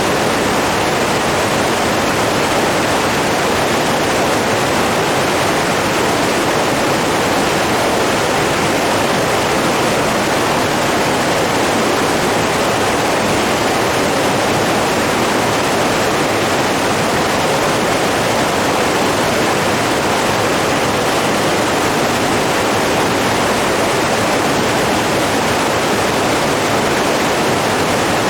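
Running water rushing steadily, an even unbroken wash with no single splashes standing out.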